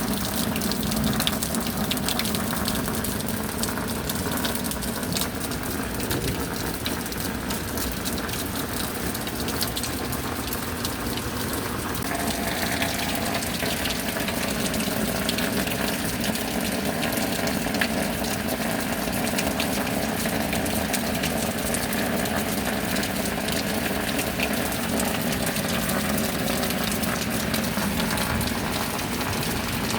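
Steady rain with water gushing and pouring, a continuous rush scattered with drop ticks; its tone shifts slightly about twelve seconds in.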